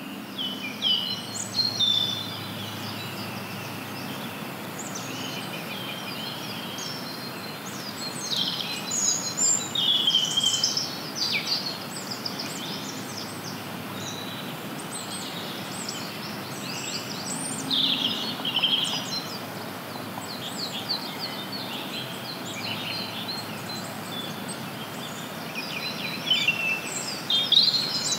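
Songbirds chirping and singing in scattered bursts over a steady background hiss.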